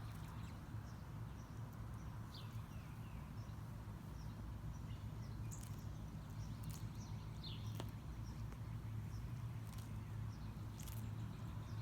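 African tortoise biting and chewing plants, heard as faint scattered crisp crunches over a steady low outdoor hum, with a few bird chirps.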